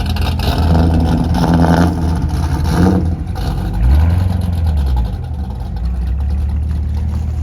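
Car engine running with a low rumble, with a short rev that rises and falls about four seconds in.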